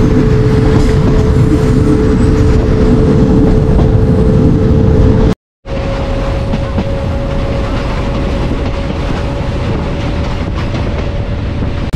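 Passenger train running on the rails: a loud, steady rumble with a constant hum over it. About five and a half seconds in the sound cuts out for a moment and comes back a little quieter, the hum slightly higher.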